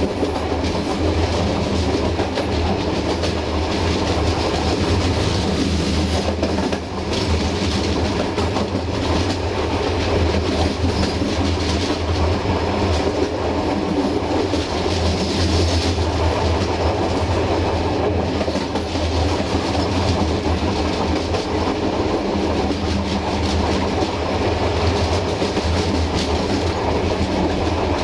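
Passenger train running along the line, its wheels rolling on the rails with a steady low rumble.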